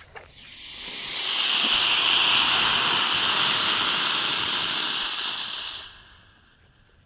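Small solid rocket motor firing on a test stand: a loud hissing burn that builds over about a second, holds steady for about four seconds, then dies out about six seconds in.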